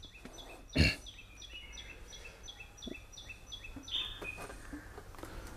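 A bird calling over and over in short falling chirps, about three a second, easing off near the end. A single sharp knock sounds about a second in.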